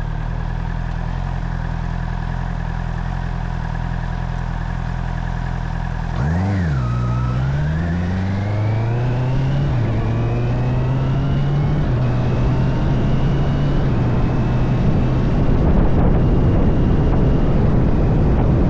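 Honda CB650R's inline-four engine idling steadily, then blipped once about six seconds in and pulling away, its pitch rising through two gears with a drop at the shift before holding steady; wind noise builds near the end.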